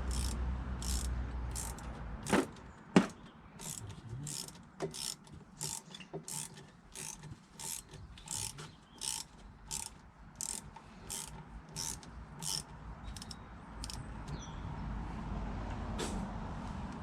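Ratchet wrench clicking as it is swung back and forth, about two clicks a second, with two louder metallic knocks a few seconds in; the clicking stops near the end.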